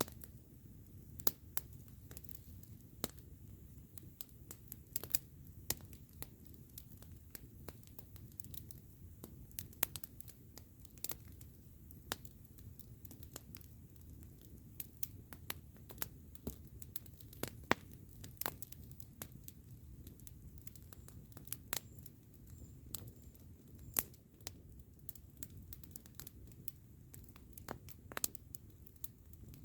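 Campfire burning, with wood crackling in irregular sharp pops and snaps over a low steady rumble.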